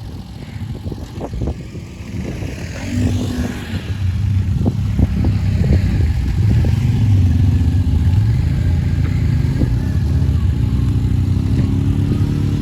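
A 450 ATV engine running hard and revving through a deep mud hole, its pitch rising and falling with the throttle. It grows louder about a third of the way in. Scattered knocks and clatter come in the first seconds.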